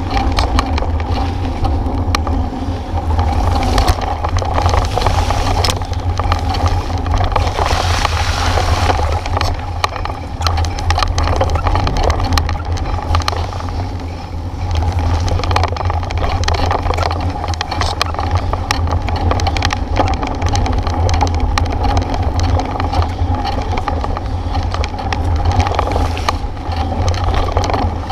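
A bike ride over a rough road: a steady low rumble of wind and road noise on the microphone, with many small rattles and knocks from the bike.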